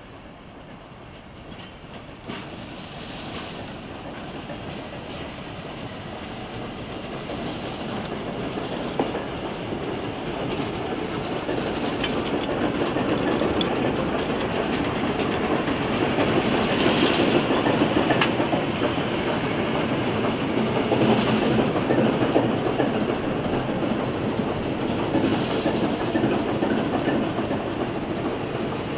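Diesel-hauled passenger train, led by ALCO locomotives, approaching and rolling slowly past. It grows steadily louder as it nears, is loudest a little past the middle, then eases off slightly.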